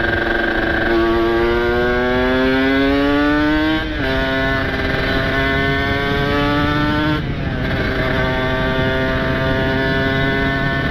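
Kawasaki Ninja RR's ported two-stroke single running under way, its pitch climbing as it accelerates. The pitch drops sharply at two upshifts, about 4 and 7 seconds in, then holds fairly steady.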